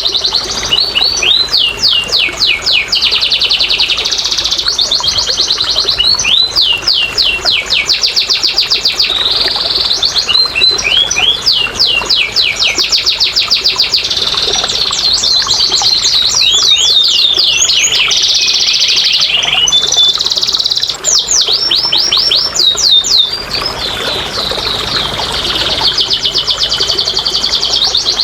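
Domestic canary singing a long, continuous song of fast rolling trills and rapid repeated sweeping notes, changing phrase every second or two without a break.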